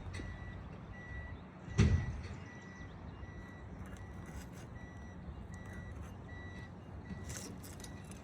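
A vehicle's reversing alarm beeping steadily, a little more than one beep a second, over a low engine rumble. A single loud thump lands about two seconds in.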